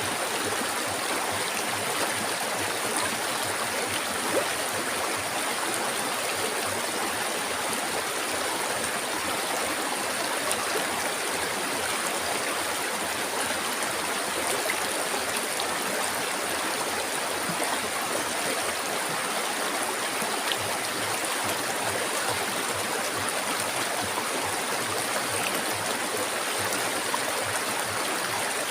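Flowing river water, a steady unbroken rush with a constant high hiss above it.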